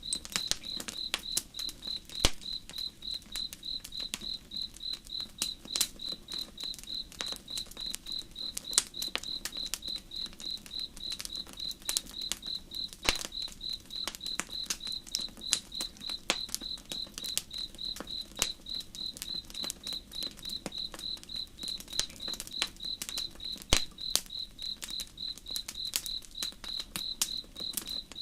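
Campfire crackling with sharp, scattered pops, while a cricket chirps steadily at an even pace of about two chirps a second, over a low, steady rush of flowing water.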